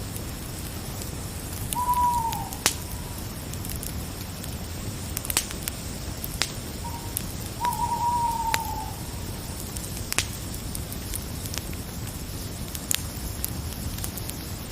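Owl hooting twice, each call holding and then falling in pitch, the second longer, over a crackling fire with scattered sharp pops and a steady hiss.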